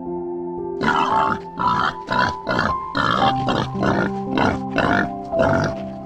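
Wild boar grunting in a quick series of short grunts, about three a second, starting about a second in, over background music.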